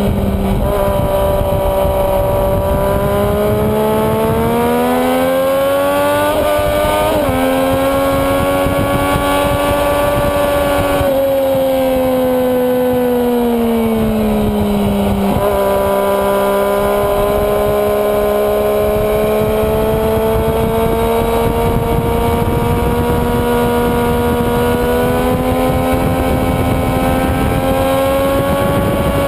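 Sport motorcycle engine at speed on a racetrack, recorded onboard with steady wind rush. The engine pitch climbs under acceleration and drops sharply on an upshift about seven seconds in, falls away through the middle as the bike slows, then rises slowly again.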